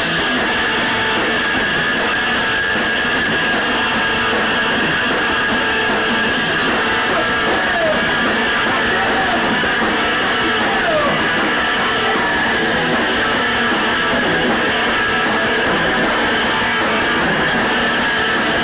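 Emo rock band playing live, with distorted electric guitars in a dense, steady wall of sound and a few sliding notes.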